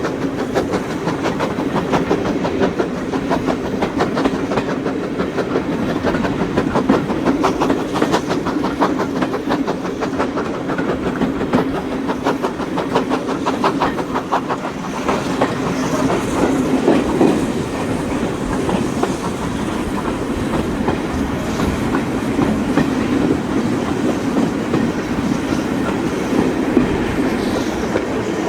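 Steam-hauled heritage train behind GWR 2-6-0 No. 9351 on the move: a steady running rumble with rapid, regular clicking from the wheels on the track.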